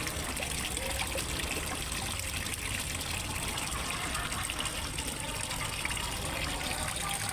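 Water splashing and trickling steadily into a fish pond from a small waterfall.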